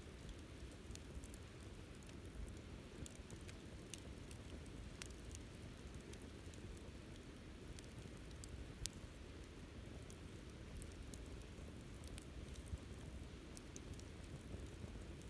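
Wood campfire burning with a steady low rush of flame, broken by scattered faint crackles and pops, one sharper pop about nine seconds in.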